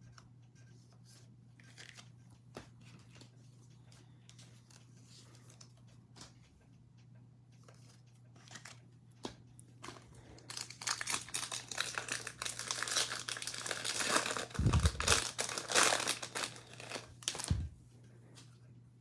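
Faint clicks of cards being handled, then, about ten seconds in, a foil trading-card pack wrapper torn open and crinkled for several seconds before it stops.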